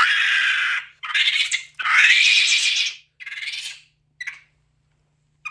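An animal calling: a run of harsh cries of about half a second to a second each, the last one short and faint.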